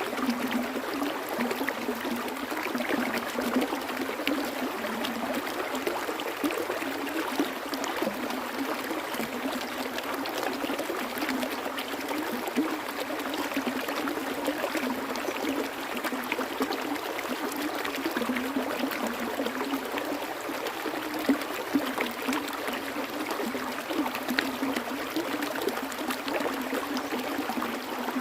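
Water flowing and trickling steadily, with constant small splashes and gurgles, as in a small stream running over rocks.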